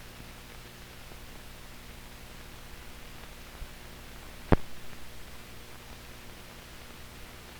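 Soundtrack noise of old newsreel film with no sound recorded: a steady hiss with a low hum, broken by a small click and then, about halfway through, one sharp pop.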